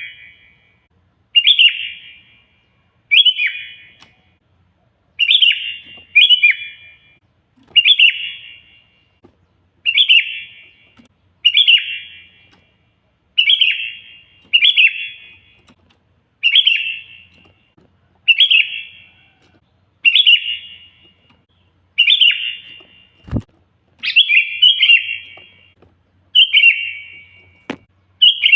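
Sooty-headed bulbul (kutilang) singing loudly and persistently, repeating a short, falling, bubbly phrase about every two seconds. Two sharp clicks come in the second half.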